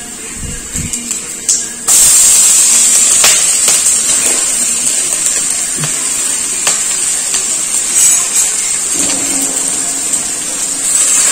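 Chopped mushroom dropped into hot coconut oil in a kadai, setting off a loud, steady sizzle that starts suddenly about two seconds in. A few light taps of utensils on the pan come through it.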